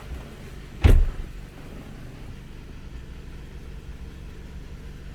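Kia Sportage 3's G4KD 2.0-litre four-cylinder petrol engine idling steadily while still warming up, an engine brought in for knocking. About a second in there is one loud, short thump.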